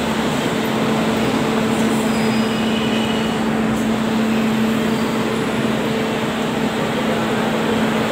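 Manila LRT-1 light rail train moving along the platform, its running and motor noise steady, with a steady low hum under it.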